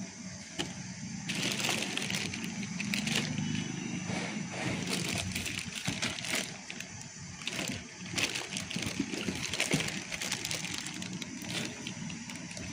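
A motor running steadily with a low hum, with irregular louder noisy swells and scattered clatter over it.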